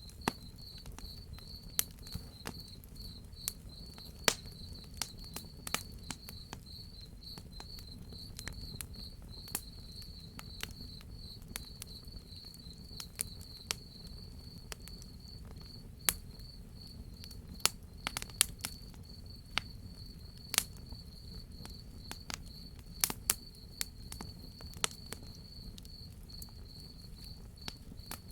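Crickets chirping in a steady, pulsing high trill, with the irregular sharp crackles and pops of a wood fire and a low steady rumble underneath.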